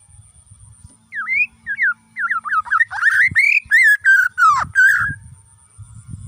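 White-rumped shama (Bornean murai batu) singing: a string of clear whistled notes gliding up and down, starting about a second in. The notes come faster and louder before the song stops about five seconds in.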